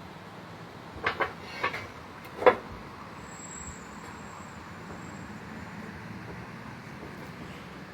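A few sharp knocks a second or so in, in two quick pairs, then a single louder knock about two and a half seconds in, over steady background noise.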